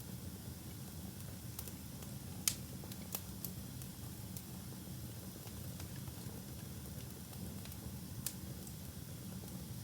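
Wood fire burning in a fireplace: a steady low rumble of the flames with sharp, irregular crackles and pops, the loudest about two and a half seconds in.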